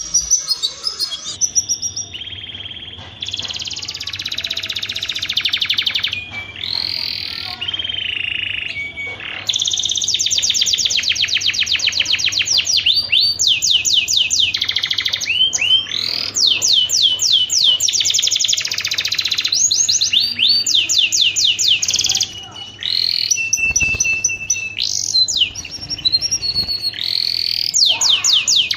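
Canary in breeding condition singing a long song of rapid rolling trills and runs of repeated falling whistled notes, high-pitched, with brief pauses between phrases.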